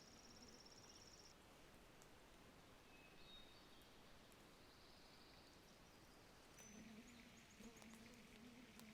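Near silence in the woods, with faint high trills and chirps from small wildlife. A faint steady low hum comes in about two-thirds of the way through.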